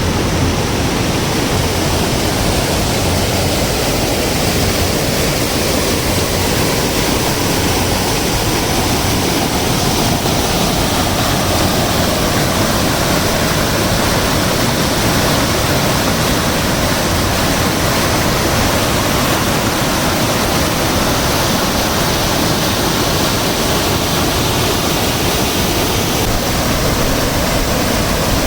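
Floodwater rushing down a waterfall in spate: a loud, steady rush of water.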